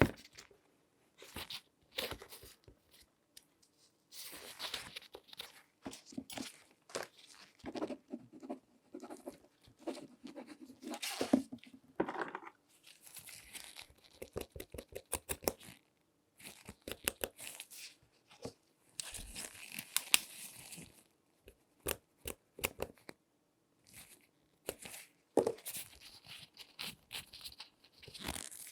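Gloved hands handling and examining a shoe: a busy run of short scratching, rubbing and crackling sounds with sharp clicks and brief pauses in between.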